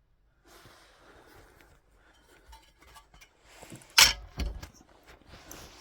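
Metal parts being handled and set down: faint shuffling, then one loud sharp clunk about four seconds in, followed by a few lighter knocks.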